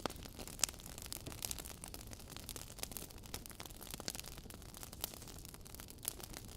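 Wood fire burning with a soft steady hiss and frequent irregular crackles and pops from the logs.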